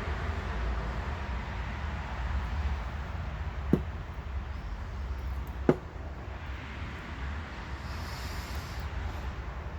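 Two sharp knocks about two seconds apart, from lawn tractor transmission parts being handled, over a steady low rumble.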